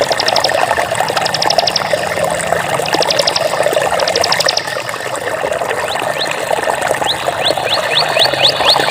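Water running steadily. Over it come several short, rapid high-pitched trills in the first half, then a string of quick rising chirps from about seven seconds in.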